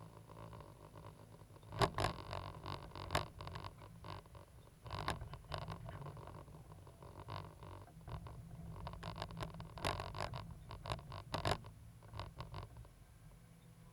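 Cat 320 GC excavator running with a low, steady engine drone, overlaid by irregular scrapes and clatters.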